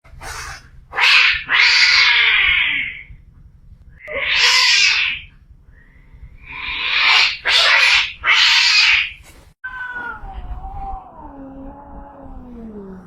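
Domestic cat screaming: a series of loud, harsh screeches with short pauses between them, then, about ten seconds in, a long, wavering yowl that slides steadily down in pitch.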